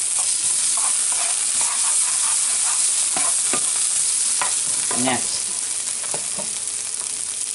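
Sliced onions, garlic and tomato paste sizzling in butter in a frying pan, with a slotted spoon repeatedly stirring and scraping them around the pan.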